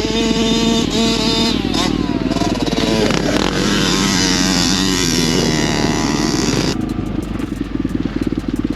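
Small pit bike engines running and revving, the pitch rising and falling with the throttle. About seven seconds in the sound changes abruptly to a duller, lower rumble.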